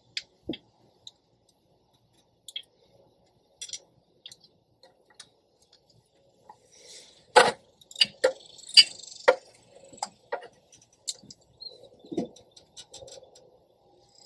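Hand tools clinking and knocking on metal car parts: scattered light clicks, then a cluster of sharper metal strikes about halfway through, and a quick run of small ticks near the end.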